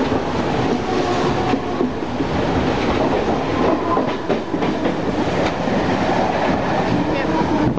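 Mumbai suburban electric local train running at speed, heard from inside the carriage near the open doorway: a steady rumble with scattered clicks and clatter of the wheels over the track. Another local train passes close alongside in the second half.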